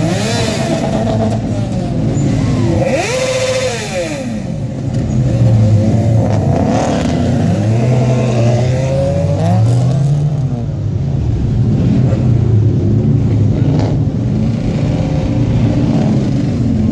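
Several cars revving and accelerating past one after another, their engine notes rising and falling as they go by, over the steady drone of other engines running.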